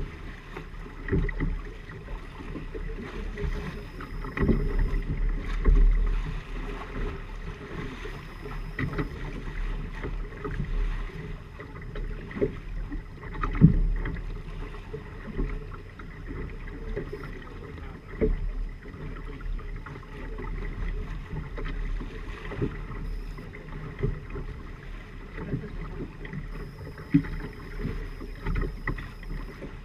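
A sailing trimaran under way: water rushing and slapping against the hulls, with irregular knocks and wind buffeting the microphone as a low rumble.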